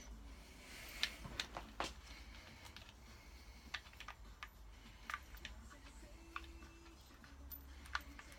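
Scattered light clicks and taps of engine parts and hand tools being handled during assembly work, a handful of sharper ones spread unevenly over the seconds, over a faint low hum.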